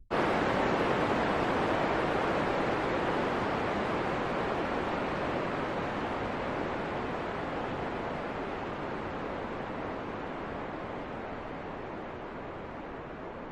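Wind blowing as a steady, even hiss that starts abruptly and slowly fades.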